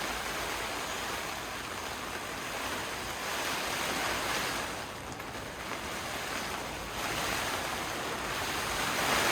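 Heavy rain pouring and strong wind gusting against a camping tent, a dense steady hiss that swells and eases, dipping about halfway through and growing louder again near the end.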